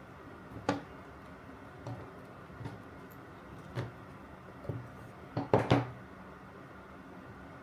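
Irregular light knocks and clicks of saw parts being handled and fitted, with a quick cluster of three louder knocks about five and a half seconds in.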